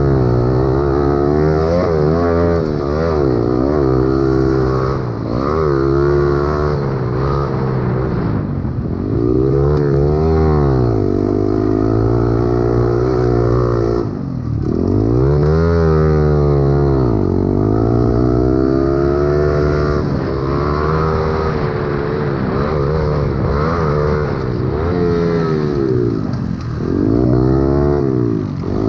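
Pit bike engines racing: a small single-cylinder four-stroke motor revs up and eases off again and again as it accelerates and brakes around the track. Other bikes keep running steadily underneath.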